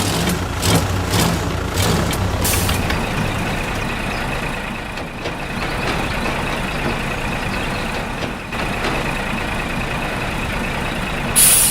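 A machine running: a low, rapidly pulsing rumble for the first few seconds, then a steady high whine, ending in a short loud hiss.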